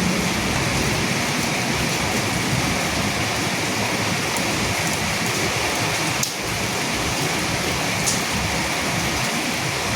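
Steady rain falling, an even hiss with a few sharper drop ticks. It dips briefly about six seconds in.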